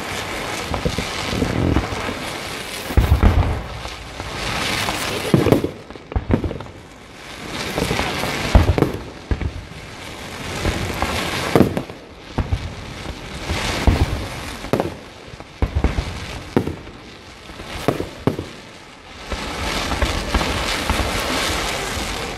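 Large fireworks display, with shots launching and bursting in quick succession, a loud report every second or two over a continuous hiss and crackle.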